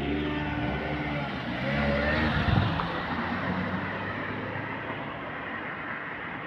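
A motor vehicle passing by: its engine and road noise swell, peak about two seconds in, then slowly fade.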